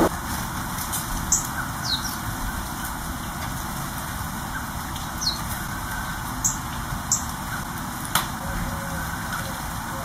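A few short, high calls and quick falling chirps from small garden birds, spaced out over a steady low background hum. A single sharp click sounds about eight seconds in.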